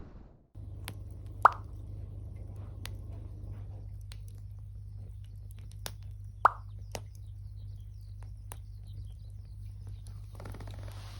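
Wood fire crackling with scattered sharp pops over a steady low hum, and two louder short plops, each dropping in pitch, about a second and a half in and again about five seconds later.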